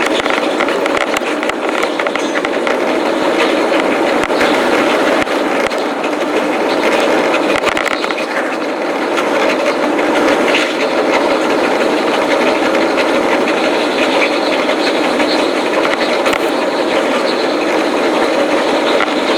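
Running noise of a JR East electric commuter train on the Shonan-Shinjuku Line: a steady rumble with a dense clatter of wheels on the rails.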